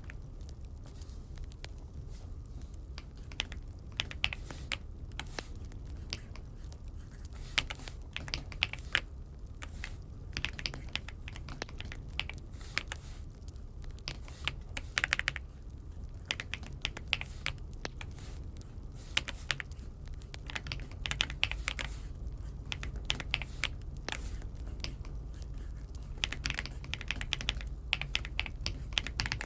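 Typing on an Aula F75 mechanical keyboard: keystrokes clicking in irregular runs and pauses, with a few louder key presses standing out.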